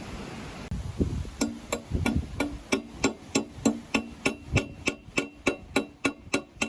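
A hammer striking metal in a fast, even series, about three blows a second and speeding up slightly, each blow ringing briefly. The blows start about a second and a half in.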